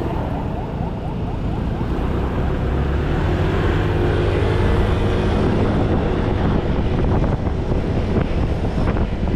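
Fire engine under way: steady heavy engine and road rumble with wind noise on the microphone, growing a little louder a few seconds in.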